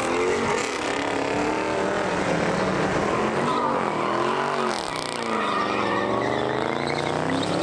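Car engine revving, its pitch rising and falling in several long sweeps.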